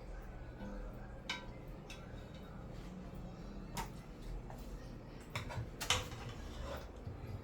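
A few light, scattered clicks and clinks of kitchen utensils against dishes, over a low steady hum.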